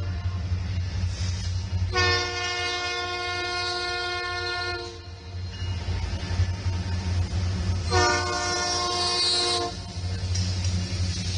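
Diesel freight locomotive sounding its multi-tone horn: a long blast of about three seconds, then a shorter one, over the steady rumble of the passing train.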